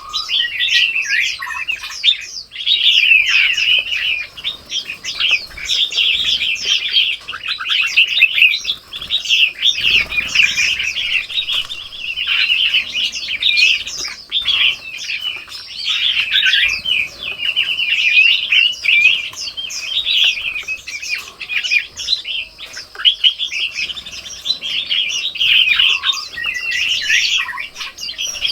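A flock of small birds chirping and chattering without a break, many short overlapping calls at once, with a brief low thump about ten seconds in.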